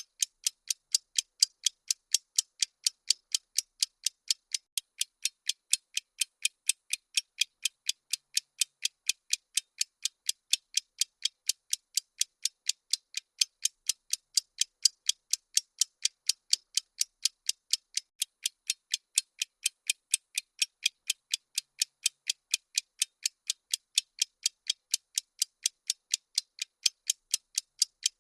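Bomb-timer ticking sound effect: sharp, evenly spaced ticks, a few a second, thin and high-pitched with no low end, keeping the same steady pace throughout.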